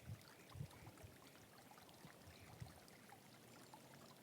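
Near silence: a small stream trickling faintly, with a few brief soft low thumps.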